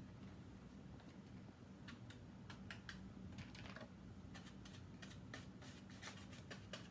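Faint, irregular light clicks and taps of a small paintbrush dabbing paint spots onto a plastic milk jug, starting about two seconds in, over a low steady room hum.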